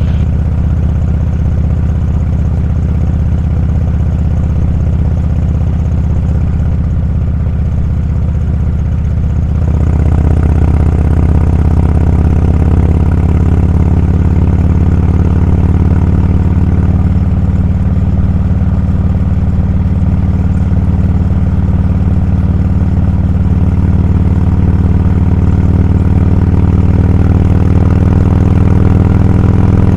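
Motorcycle engine running steadily, getting louder about ten seconds in and holding there.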